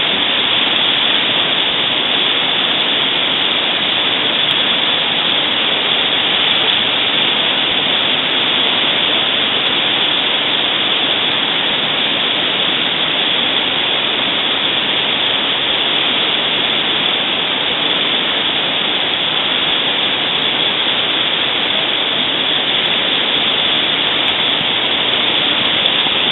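Steady rush of river water, an even loud noise with no breaks.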